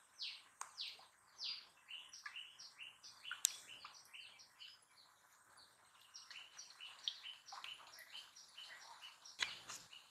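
Birds chirping faintly in quick runs of short, high, down-slurred notes, with a couple of sharp clicks, the loudest near the end.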